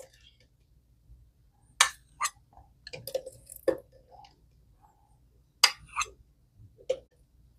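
Kitchen utensil clinking and knocking against dishes in about eight sharp, irregularly spaced clinks, the loudest a little under two seconds in and about six seconds in.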